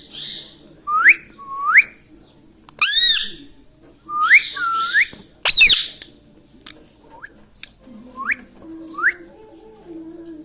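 Ringneck parrot whistling: short, sharply rising whistles that come in pairs, three times, with three harsh squawking calls between them.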